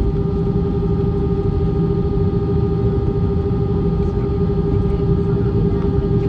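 Airbus A320 airliner cabin noise: the steady drone of the jet engines and airflow, with a strong held hum over a low rumble.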